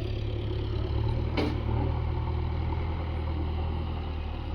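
Diesel engine of a JCB backhoe loader running steadily, with a single light knock about a second and a half in.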